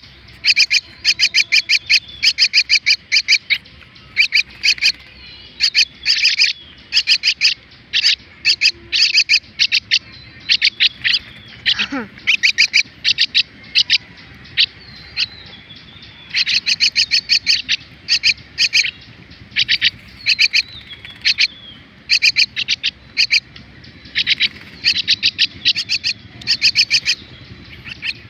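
Common myna (shalik) chicks calling: harsh, rapid chirps in repeated bursts of about a second each, the begging calls of hand-raised nestlings.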